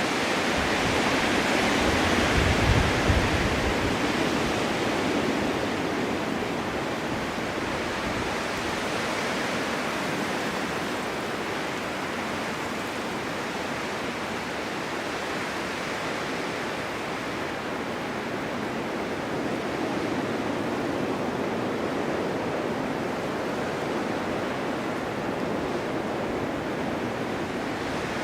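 Blizzard wind blowing steadily as a rushing hiss, gusting stronger in the first few seconds with a low buffeting rumble, easing off, then rising again later.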